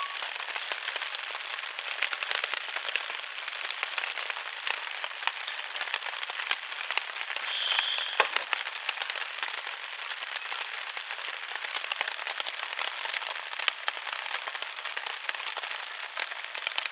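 Heavy rain pattering on a vinyl sheet overhead, a dense steady crackle of drops. A brief louder hiss and a sharp click come about eight seconds in.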